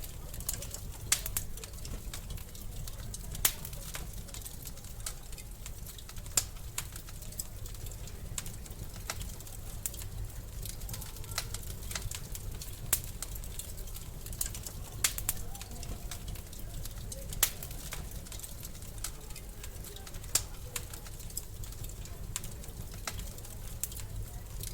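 Wood fire crackling in a fireplace: irregular sharp pops and snaps over a steady low rush of the flames, with a few louder pops among them.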